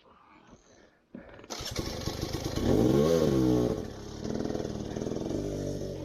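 Motorcycle engine starting about a second in, revved up and back down, then running at a steadier pitch.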